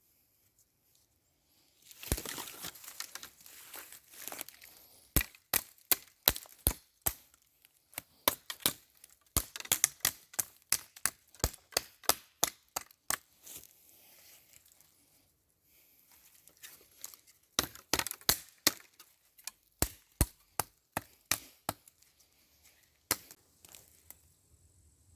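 Knife chopping wood: a run of sharp, hard knocks, about two or three a second, a pause, then a second run. A rustling crackle of twigs comes before the first strikes.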